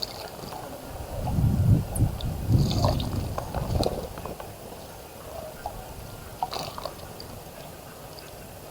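Water splashing in a bird bath as a bird bathes, heaviest from about one to four seconds in, then lighter drips and small ticks.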